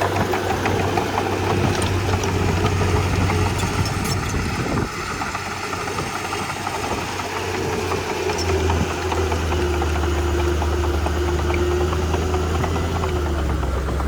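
Komatsu D31P crawler bulldozer's diesel engine running steadily while it works, with a whine over the engine note. About eight seconds in, the engine note deepens and grows stronger.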